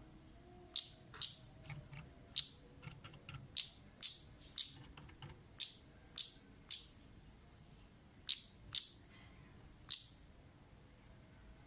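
Kemade (orange-headed thrush) giving short, sharp, high 'cit' call notes, about a dozen of them spaced irregularly, some in quick pairs, with a pause of nearly two seconds near the end. This is the lure call of a female kemade, used to set other birds calling.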